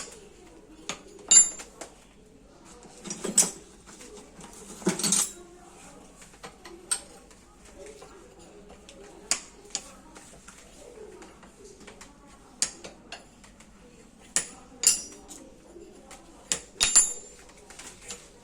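Metal parts and hand tools clinking and knocking against one another at an irregular pace, the sharpest strikes ringing briefly, during work on a sugarcane press.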